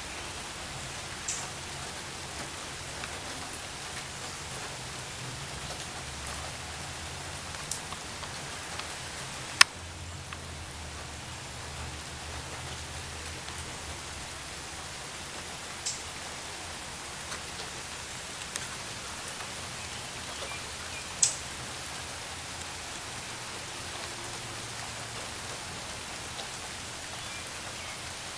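Steady rain falling, a constant even hiss, with a few sharp ticks of single drops scattered through it, the loudest about ten seconds in and again about two-thirds of the way through.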